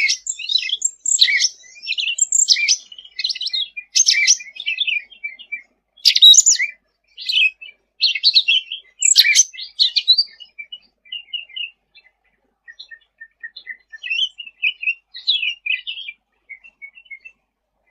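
A cucak ranting songbird singing in rapid, chattering bursts of high chirps and short whistled notes, busy for the first ten seconds, then thinning to scattered softer notes.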